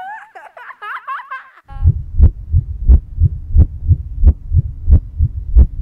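Wavering, high-pitched vocal sounds for about the first second and a half, then a deep, fast heartbeat sound effect starts suddenly and pounds at about three beats a second.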